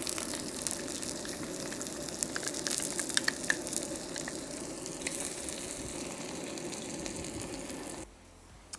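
Sliced shallots and minced garlic sizzling steadily in canola oil in a cast-iron wok, with a few sharp clicks of a wooden spatula about two to three seconds in. The sizzle cuts off suddenly near the end.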